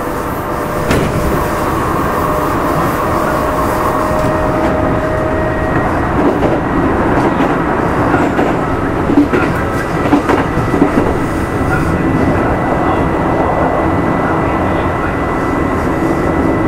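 Kintetsu 2610 series electric train running, heard aboard motor car Mo 2614: a steady rumble of wheels and running gear with rail-joint clacks. A few louder clacks come about nine to eleven seconds in.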